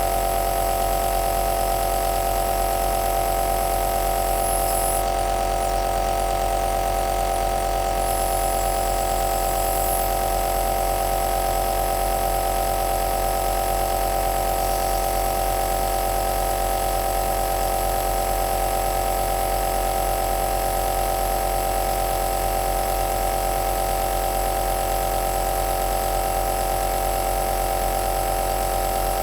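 Nebulizer's electric compressor running steadily: a constant motor hum with one strong tone and several weaker ones, over an even hiss of air.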